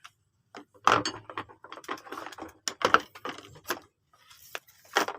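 Small metal parts being handled: a string of irregular clicks, knocks and rattles, some sharp, with short pauses between.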